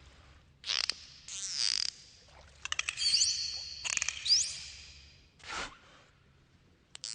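Dolphins calling: bursts of rapid clicks and buzzing pulse trains, with a couple of short gliding whistles around the middle.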